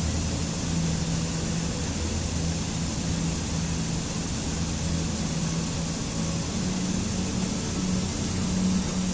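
Steady rushing water, an even full hiss, with a low hum running underneath.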